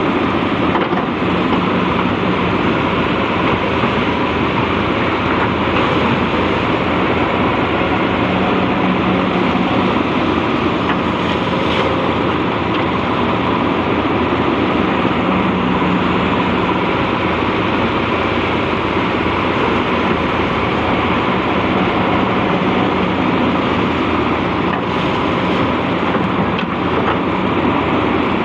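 Hydraulic excavator's diesel engine running steadily under load, a dense, even drone with a low hum that comes and goes.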